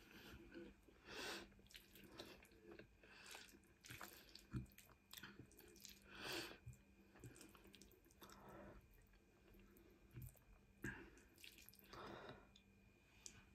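Quiet, wet chewing and mouth sounds of a person eating tagliatelle bolognese and cheesy garlic bread, coming in irregular short bursts.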